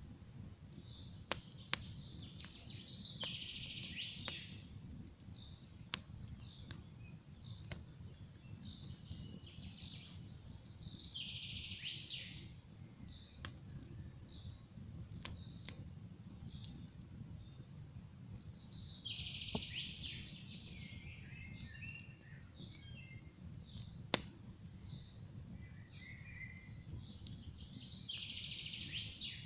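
Campfire crackling with sharp, irregular pops over a low steady rumble, while songbirds sing: a burst of song about every eight seconds, with short repeated high chirps in between.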